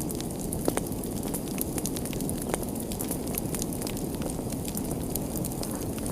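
Wood fire burning in a fireplace: a steady low rumble of flames with a constant scatter of small crackles and a few louder pops.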